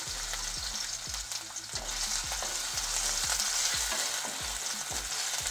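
Chopped garlic and ginger sizzling in hot oil in a nonstick pan, with repeated scrapes and taps of a wooden spatula stirring them.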